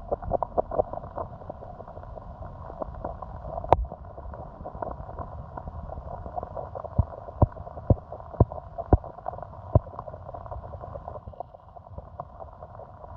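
Small stream running and gurgling over stones, with irregular clicks and knocks throughout and a string of sharper knocks about half a second apart between about seven and ten seconds in.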